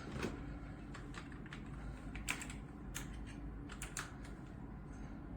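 Keys on a SteelSeries Apex 5 keyboard with hybrid blue switches being pressed, a dozen or so irregular, clicky keystrokes, some in quick pairs.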